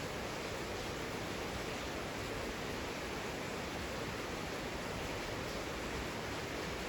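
Heavy rain falling, a steady even hiss with no single drops or gusts standing out.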